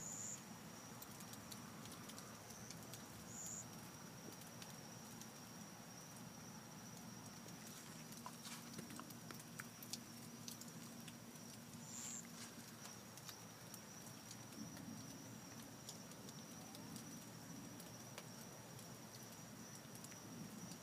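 Faint rain during a storm, with scattered drips tapping close by and a steady, thin high tone throughout.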